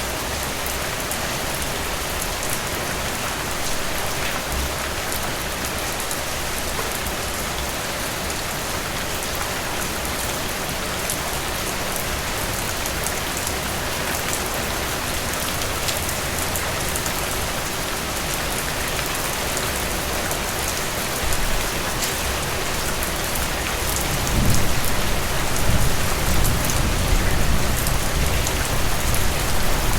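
Steady rain falling through forest trees, an even hiss of drops. Near the end a low rumble comes in under the rain and stays.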